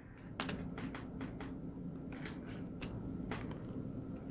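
Faint, scattered light clicks and taps, about five of them, over a faint steady low hum that comes in about half a second in.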